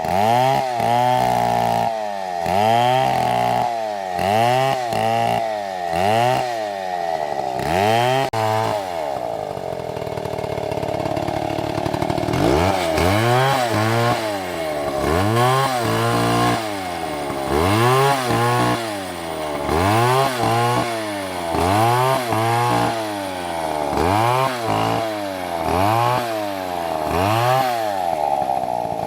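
Chainsaw cutting wood, its engine revving up and down about once a second. It settles to a steadier, lower running about a third of the way in, then goes back to the repeated revving.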